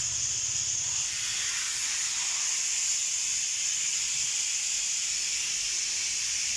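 Car wash high-pressure jet switched on suddenly and hissing steadily, a sharp high hiss with no break.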